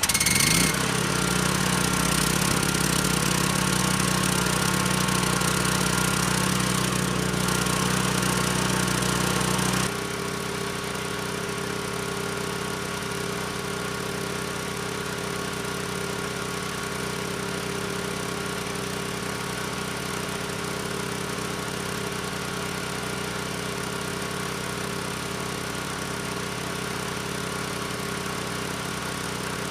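Sportsman 9000-watt portable generator's gasoline engine catching on the first recoil pull with fresh fuel and running steadily. About ten seconds in, the engine's sound drops to a lower, even running note that holds to the end.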